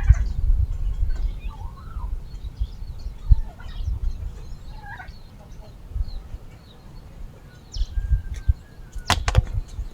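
Chickens clucking with short, wavering calls over a low, uneven rumble, with a few sharp clicks a little after nine seconds in.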